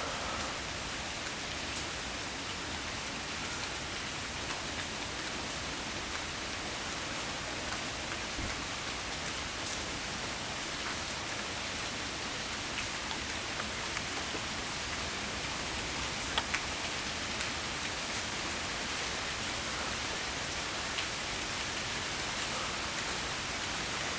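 Steady rain falling during a thunderstorm, an even hiss with a few brief taps about two-thirds of the way through.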